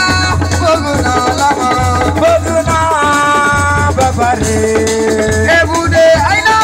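Live asiko (siko) band music: a shaker rattles over a steady low drum beat, under a melodic lead that holds notes and slides between them.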